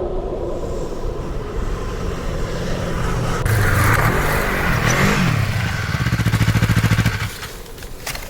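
A motor vehicle's engine running, its pitch dipping and rising around the middle, then dropping away about seven seconds in.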